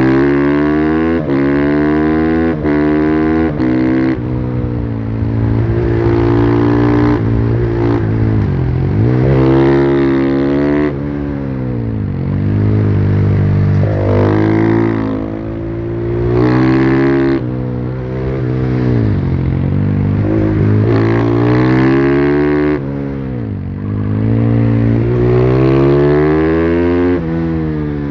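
Husqvarna FE501's single-cylinder four-stroke engine on its stock exhaust, heard from on the bike, pulling hard in repeated rising sweeps. A run of quick upshifts breaks the rise in the first few seconds, and the revs fall away between the pulls.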